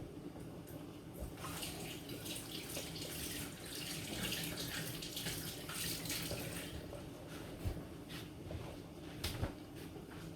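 Water running for several seconds, easing off about two-thirds of the way through, with scattered light clicks and knocks and a faint steady low hum underneath.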